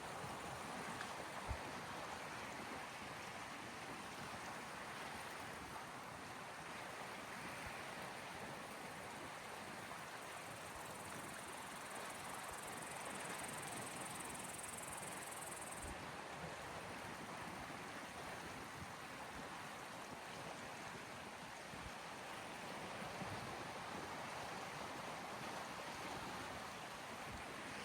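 Small sea waves washing gently on a shore, a steady soft wash that swells and eases. There is a brief knock about a second and a half in, and a faint high hiss joins for a few seconds in the middle and cuts off suddenly.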